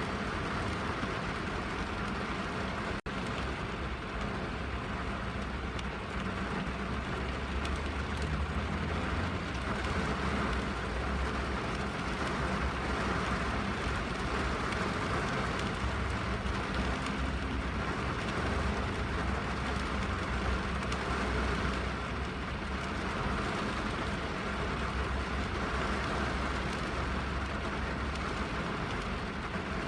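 Steady rain falling on a car's roof and windows, heard from inside the cabin, with a constant low rumble underneath. The sound cuts out for an instant about three seconds in.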